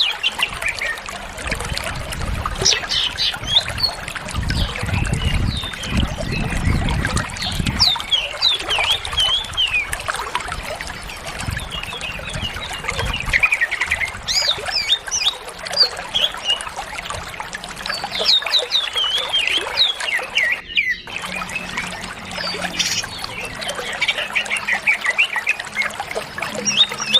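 Green leafbird (cucak ijo) singing without pause: rapid chirps, twitters and trills, packed with phrases mimicked from other birds. The song breaks off for a moment about 21 seconds in.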